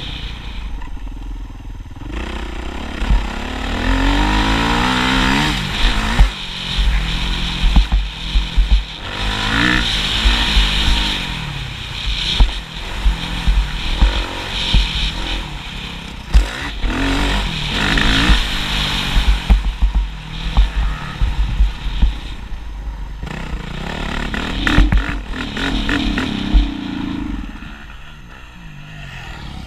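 Motocross motorcycle engine revving up and dropping back again and again, with repeated knocks and clatter and a heavy low rumble. It gets quieter near the end.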